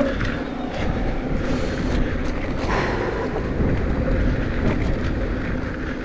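Mountain bike riding over a dirt trail: steady tyre and wind noise with a few short clicks and rattles from the bike.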